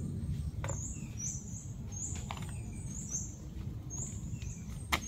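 Small bird calling in short, high chirps, about one or two a second, over a steady low background rumble. There are a few faint clicks and one sharp click near the end.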